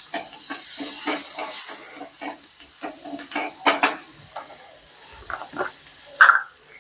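Garlic cloves and mustard seeds sizzling in hot oil for a tadka, while a spoon stirs and scrapes the pan. The sizzle is loudest in the first couple of seconds, and the stirring strokes thin out after about four seconds.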